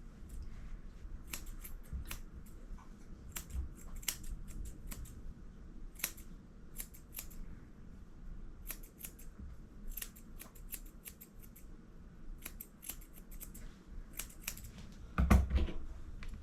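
Grooming scissors snipping in quick runs of several cuts as the fur on a puppy's feet is trimmed. A louder bump near the end.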